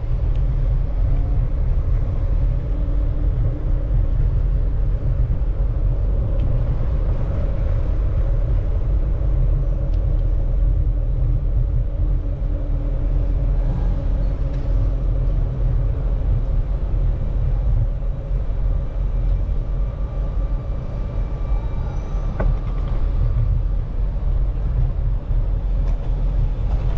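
Steady low rumble of wind buffeting the microphone while cycling, with faint street traffic underneath.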